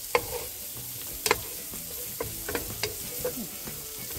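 Diced onion and chanterelle mushrooms sizzling in bacon grease in a frying pan, stirred with a wooden spoon that knocks against the pan with several sharp taps.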